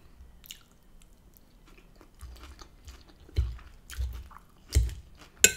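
Close-miked chewing and crunching of crisp chopped lettuce and rocket salad: a few crunchy chews about half a second apart from a little past halfway. A sharp click comes near the end.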